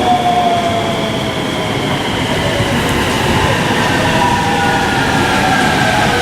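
JR West 223 series electric train pulling out, its inverter-driven traction motors giving a whine of several tones that climb steadily in pitch as it accelerates, over a steady hiss of rain.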